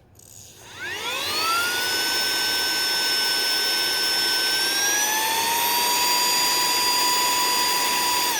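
Saker mini cordless handheld vacuum switched on: its small motor spins up to a high-pitched whine within about a second and a half, rises a little further about five seconds in, then runs steadily.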